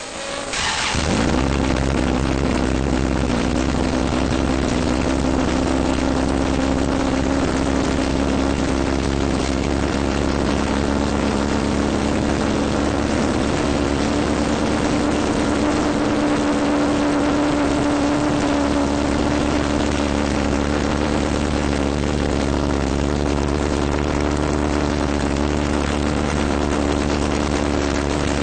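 Honda B-series 2.1-litre DOHC VTEC four-cylinder on individual throttle bodies starting up and settling at once into a steady, even idle.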